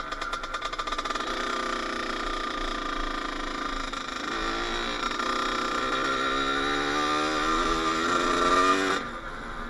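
Kawasaki KX80 two-stroke single-cylinder dirt bike engine revving, its pitch climbing and falling back several times, loudest just before it drops off to a low idle about nine seconds in.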